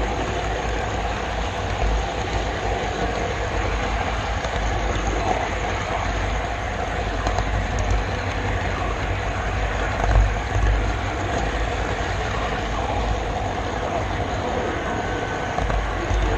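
Model railroad camera car rolling steadily along the track, heard close up from the GoPro Session riding on it: a continuous rumble and rattle of small wheels on rail, with a few heavier low bumps about ten seconds in.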